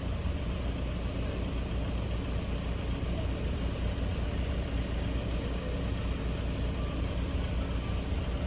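Vehicle engine idling steadily: an even low rumble that does not change.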